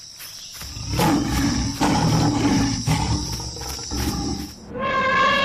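Lion roaring in a series of deep, rough grunting pulses. Near the end a different, higher-pitched drawn-out call begins.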